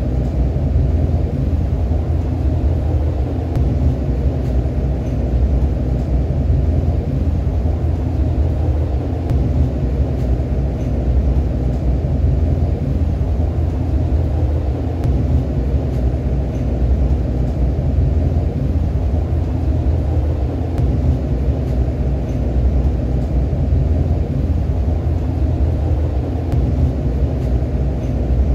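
Steady rumble of a REM automated electric light-metro train running along its elevated track, heard from inside the car at the front window.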